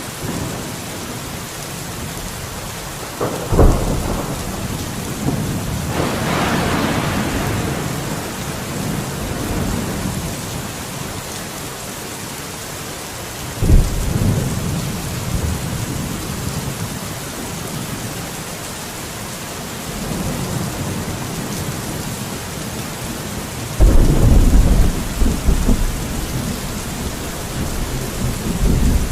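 Steady rain falling, with four rolls of thunder breaking in: one about 3 seconds in, another just after, a third about halfway, and the loudest, longest rumble near the end.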